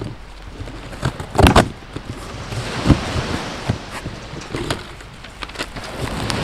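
Dry oak firewood crackling and popping as it burns, with irregular sharp snaps, a cluster of louder pops about a second and a half in. Underneath is a steady wash of ocean-wave sound.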